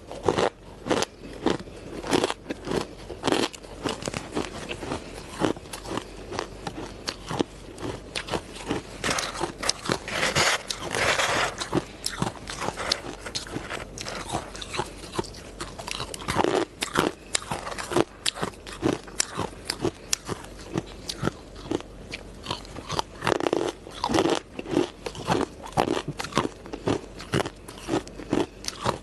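Ice being bitten and chewed close to the microphone: dense, irregular crunching and crackling, with a few louder bites along the way.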